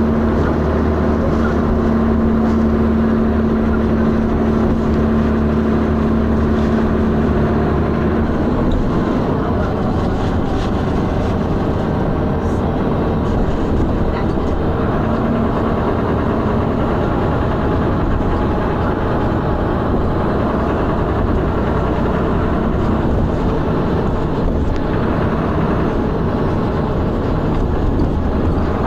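Diesel engine of a Dennis Arrow double-decker bus running under way, heard from on board, with a steady hum that fades about eight seconds in and returns more faintly later. The bus is one the recordist describes as knocking loudly and thrashing.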